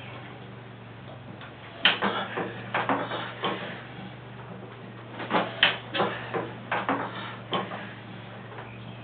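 Sharp, irregular metallic clanks and knocks in two bunches, from hand-cranking a 1914 Associated 4 hp hit-and-miss engine that has not yet started, over a steady low hum.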